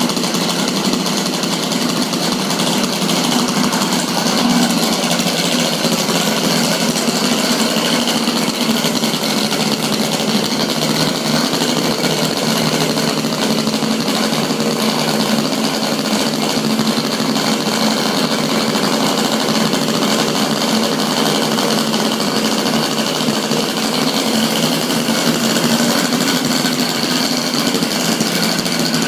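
Small gasoline engine of an RC quadcopter running steadily at a constant speed, loud and unbroken.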